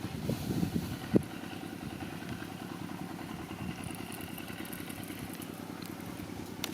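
A small engine running steadily with a low, fast-pulsing rumble, and a single sharp click about a second in.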